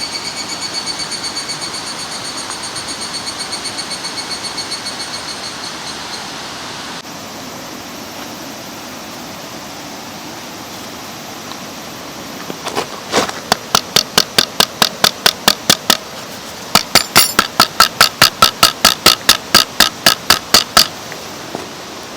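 Steady rushing of a mountain stream. Over it, a high pulsing tone for the first six seconds, then two runs of rapid, evenly spaced sharp taps, about five a second, each run lasting a few seconds.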